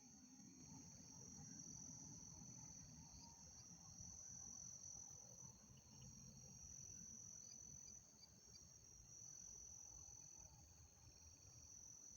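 Faint, steady chorus of night insects, a high continuous trill that swells and eases slightly, over a low background rumble.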